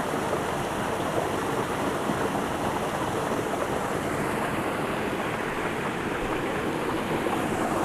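Small waterfall on a low, clear creek, its water splashing and rushing steadily.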